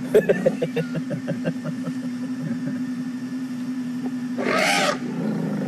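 A young elephant trumpets once, a short, loud blare about four and a half seconds in, over the steady hum of an idling safari vehicle engine. A quick run of short pulses comes in the first two seconds.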